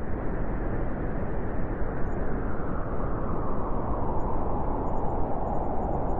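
Strong wind blowing steadily through a snowy forest, a dense rushing sound with a deep rumble underneath.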